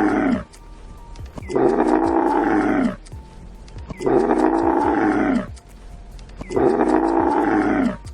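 An animal calling over and over at an even pace, three full calls about a second and a half long each, every one dropping in pitch at its end.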